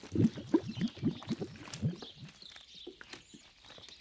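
Water bubbling: a quick, irregular run of short low bubble blips, thickest in the first two seconds and thinning out after.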